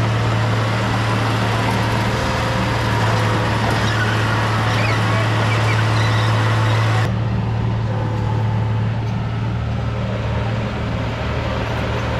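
Bulldozer's diesel engine running steadily with a strong low hum under a noisy hiss. About seven seconds in the sound turns suddenly duller as the hiss drops away while the engine hum carries on.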